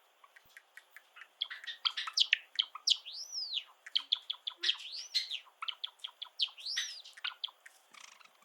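Java sparrow song: a run of dry clicking notes that quickens into a rapid string of chirps, broken twice by a high arched whistle, stopping near the end.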